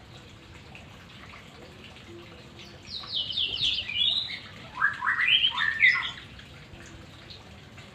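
White-rumped shama (murai batu) singing one short phrase about three seconds in: a quick run of falling notes, then a lower series of rising notes, over a steady background of running water.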